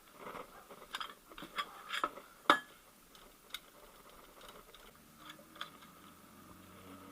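Irregular sharp metallic clicks and clinks of hand tools on the crankshaft pulley bolt of an Opel 1.6/1.8 engine as it is being undone, the crankshaft held by a rod in the flywheel ring gear. The clicks come thickest in the first few seconds, with one loud clank about two and a half seconds in, then thin out.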